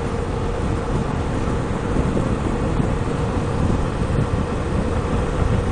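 Wind buffeting the microphone over a motorcycle running steadily at highway speed, with a low rumble and a faint steady hum.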